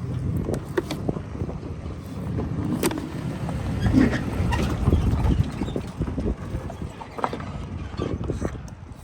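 Wind buffeting the microphone as a low, uneven rumble, with scattered light knocks and clicks throughout.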